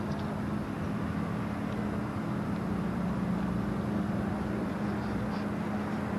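A steady mechanical hum with a low droning tone, constant throughout, like an idling engine or running machinery.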